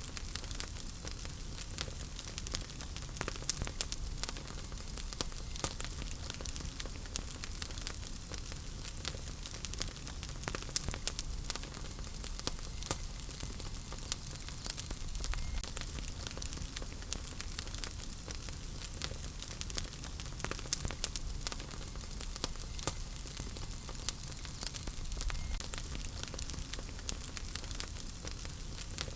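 Wood fire burning in a fireplace, with a steady hiss and frequent small crackles and pops throughout.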